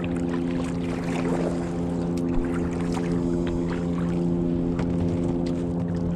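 Steady motor hum, unchanging in pitch, with scattered small clicks and knocks over it.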